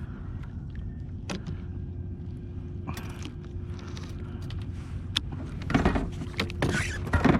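Clicks and rattling, rustling handling noises over a steady low rumble, with two louder bursts of clatter about six and seven seconds in.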